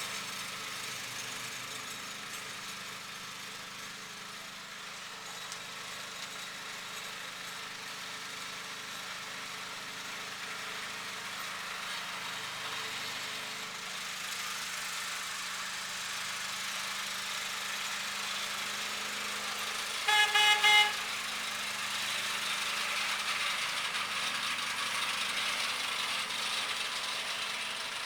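Engine of a John Deere lawn tractor with a homemade Honda single-stage snowblower attachment running steadily. Partway through, a horn gives a short honk of a few quick toots, the loudest sound here.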